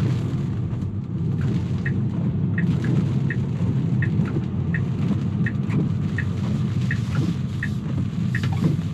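Steady low road and tyre rumble heard inside a Tesla's cabin, driving on wet streets. Over it, a regular light tick comes about every 0.7 seconds, the car's turn-signal indicator.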